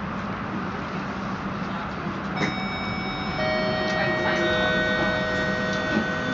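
Cabin sound of a standing passenger train: a steady low hum and rumble. About two and a half seconds in, a click, then several steady high whining tones at different pitches set in and hold through the rest.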